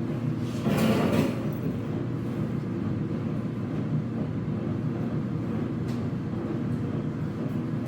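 Whirlpool dryer drum turning with a steady low rumbling grind, the sound of worn drum rollers. A brief louder rush comes about a second in.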